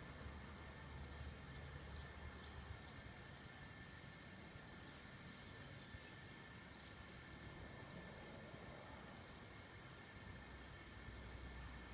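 Quiet outdoor ambience with a small bird chirping repeatedly: short, high, downward chirps about twice a second.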